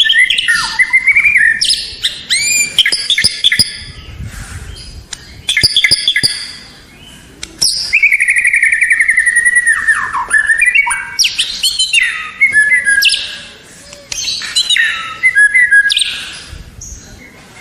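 White-rumped shama (murai batu) singing a varied song of loud whistles, up-and-down glides and quick chattering runs, with a long rapid trill around the middle.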